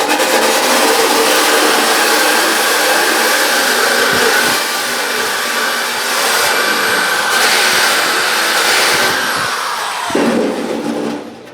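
Electric drill spinning a wire wheel against sheet-metal toolbox parts, a loud steady whine with scraping noise. About ten seconds in the whine falls away and the drill runs down and stops.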